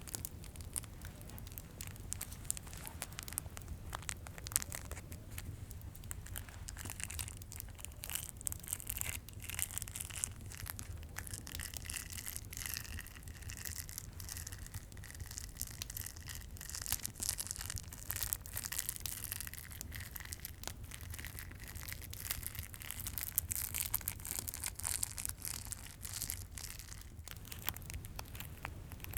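Plastic candy cane wrappers crinkling close to the microphone: a dense run of fine crackles and clicks, busiest in the middle. A low steady fireplace sound runs underneath.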